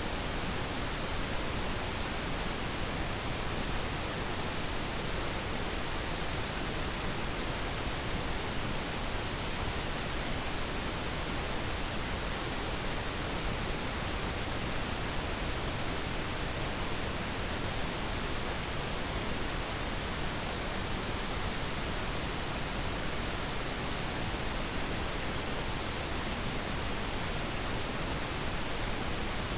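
Steady pink noise: an even, unchanging hiss across the whole range, played as a focus background.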